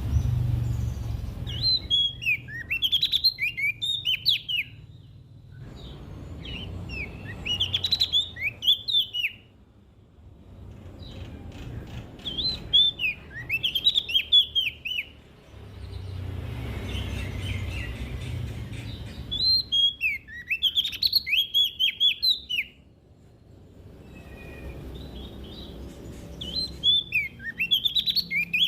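Prenjak daun songbird singing in repeated bursts of quick, high chirping notes, a phrase every five or six seconds. A low rumble fills the gaps between phrases.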